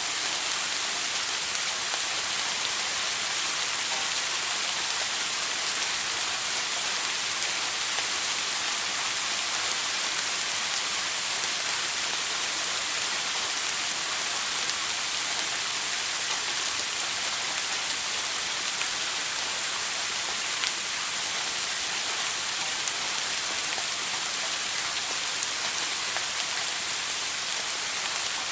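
Shower running steadily, a dense even hiss of water spray falling onto a hard surface.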